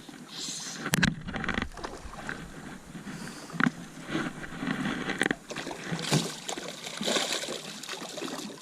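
Water splashing around a jon boat, broken by several sharp knocks on the boat, the loudest about a second in.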